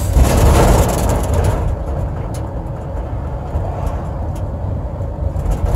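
Car driving, heard from inside the cabin: a steady low road-and-engine rumble, with a louder rushing swell in the first second and a half that then settles.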